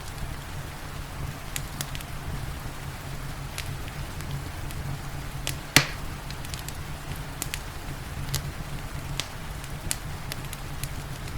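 Wood fire crackling, with scattered sharp pops, the loudest about six seconds in, over a steady bed of rain and low rumble.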